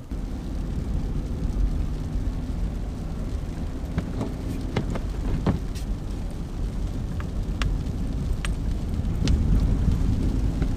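Car driving on a snow-covered road: a steady low rumble of engine and tyres, with scattered sharp ticks on top, growing a little louder near the end.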